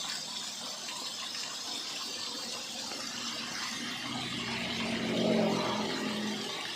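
Steady rush of cold stream water flowing, an even hiss, with a faint low hum that rises and fades about four to six seconds in.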